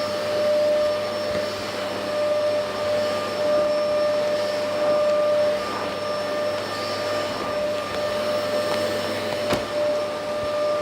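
LG VK69401N vacuum cleaner running steadily: a constant motor whine over the rush of air. A single sharp click comes near the end.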